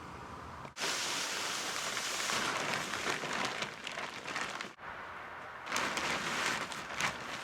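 Stiff old plastic tarp crinkling and rustling as it is handled and spread out, with two abrupt breaks.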